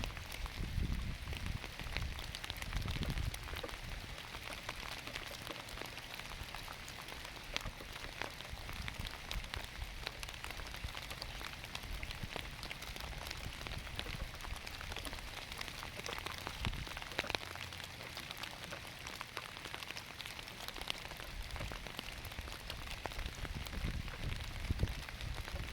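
Steady rain falling on lettuce plants: a continuous hiss dotted with the ticks of individual drops, with a few low rumbles near the start and near the end.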